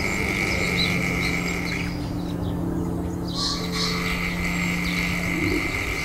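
Small birds chirping repeatedly in a forest, with one louder, higher call a little past halfway, over a soft, steady ambient music drone.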